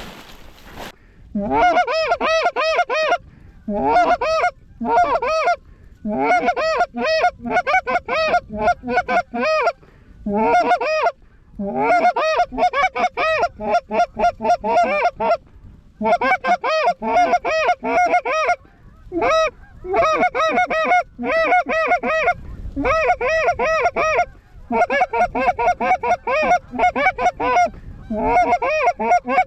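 Canada goose honks and clucks, loud and fast, several calls a second, in runs broken by short pauses.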